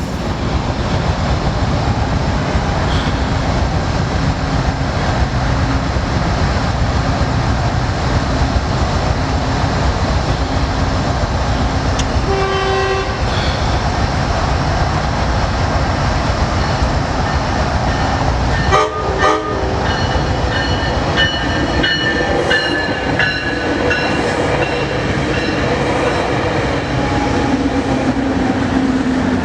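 Amtrak passenger train passing close by: a steady heavy rumble of wheels on rail. Pitched sounds rise out of it briefly about halfway through and again in the last third, where they slowly fall in pitch.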